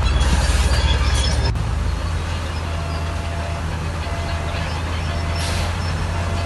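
Heavy earthmoving machine's diesel engine running steadily with a deep drone, with high metallic squeaks in the first second and a half and a short hiss about five and a half seconds in.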